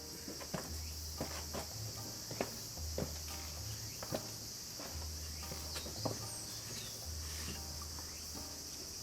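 Steady high insect chirring with scattered light clicks and knocks, over a low note that repeats every second and a half or so.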